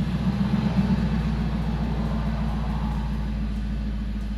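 Car engine with aftermarket exhaust headers running steadily under way: a low, pulsing exhaust rumble.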